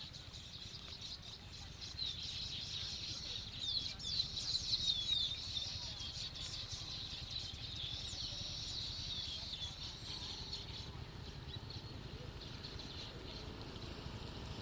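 Baya weaver birds chattering: a dense run of short, high chirps that builds about two seconds in and thins out near the end, over a steady low rumble.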